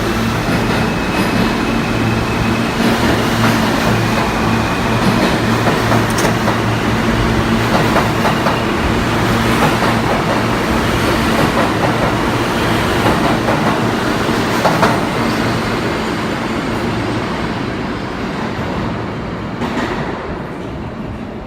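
New York City subway train running on the rails, heard from inside the car: a steady low motor hum under dense rail noise, with wheels clicking over rail joints. Near the end the hum drops out and the noise gets quieter.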